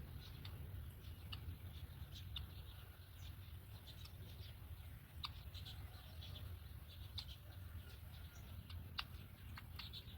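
Faint, short, high-pitched bird chirps scattered irregularly throughout, over a steady low hum.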